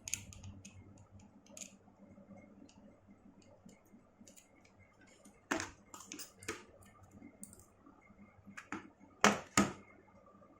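Light clicks and taps of small repair tools and tiny screws against an iPhone's metal frame, made while unscrewing the plate over the display connectors. The taps are irregular, with a few sharper ones near the middle and a close pair later on.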